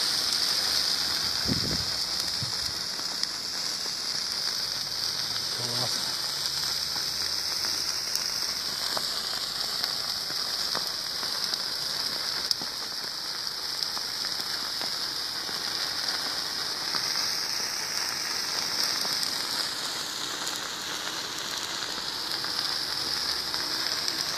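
Bonfire burning on ice: a steady hiss with scattered faint crackles and one sharper pop about twelve seconds in.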